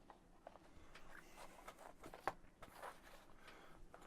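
Near silence: room tone with a few faint small clicks and rustles, the sharpest click about two seconds in.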